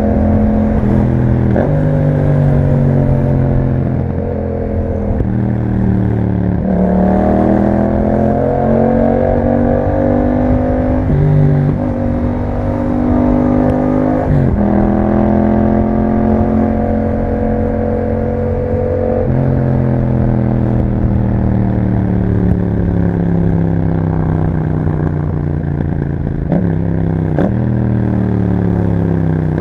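2021 Yamaha MT-07's 689 cc parallel-twin engine through an Akrapovic exhaust, under way: the engine note climbs in pitch and drops sharply at several gear changes, then falls away in a long slow run-down over the second half as the bike slows.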